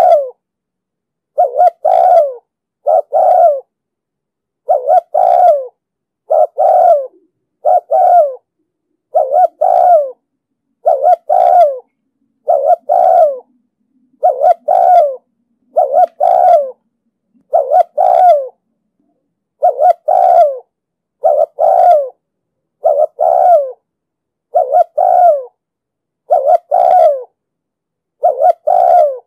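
Spotted dove cooing in a steady series of short, deep coos, one about every second and a half, each note falling in pitch at its end. It is the insistent courtship coo that keepers call 'thúc gù'.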